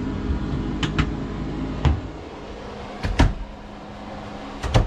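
Wooden cabinet doors being opened and shut: sharp knocks and latch clicks about a second in, near two seconds, around three seconds and near the end, several of them in quick pairs, over a steady hum.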